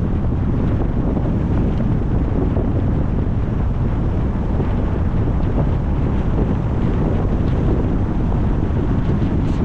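Steady wind buffeting the microphone of a camera on a moving car, a dense low rumble of noise.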